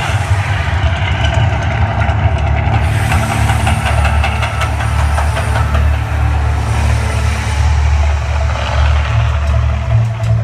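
Deep, continuous rumble of the Mirage volcano attraction's eruption show, with hissing surges about three and seven seconds in.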